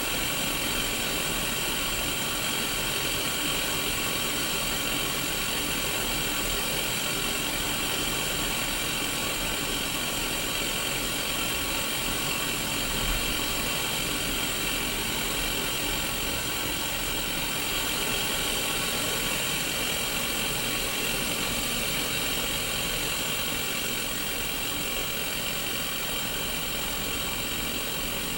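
Steady static hiss from the speaker of a Sony Mega Watchman, a small black-and-white CRT television tuned to no station.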